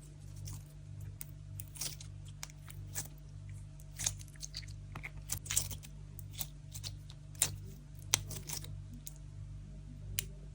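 Jelly cream slime being squished and stretched by hand, giving irregular sticky pops and clicks, a few louder pops a little past halfway.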